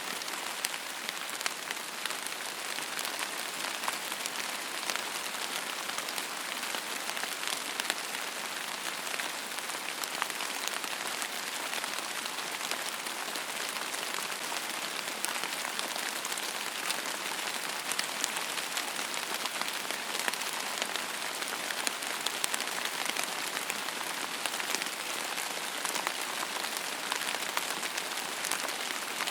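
Steady rain falling, an even hiss full of fine, scattered drop ticks.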